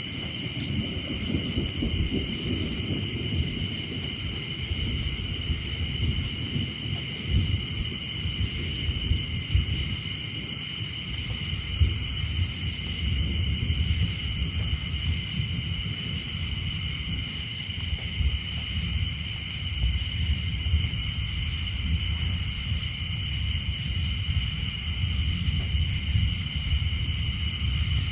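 Distant thunder rumbling low and continuously, rising and falling, under a steady high-pitched chorus of tree frogs, with a few light ticks of dripping rain.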